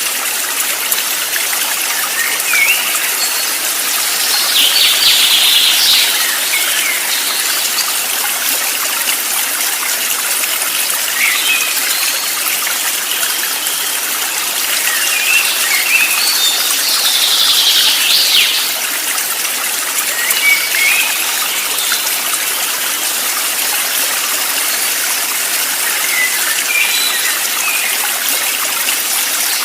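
Steady rushing of a stream or small waterfall, with scattered short bird chirps and two longer, louder bursts of calling about five and seventeen seconds in.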